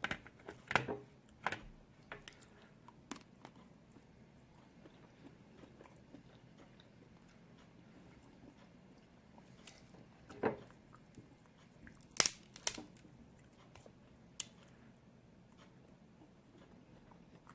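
A person eating close to the microphone: scattered sharp cracks and crunches with soft chewing between them, several in the first couple of seconds, then single ones later with quiet stretches between.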